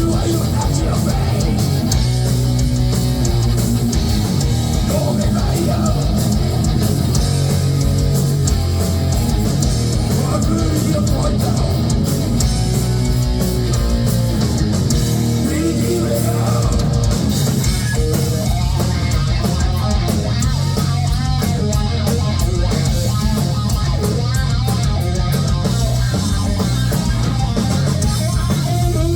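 Heavy metal band playing live: distorted electric guitars and bass over a pounding drum kit with steady cymbal wash, loud and unbroken.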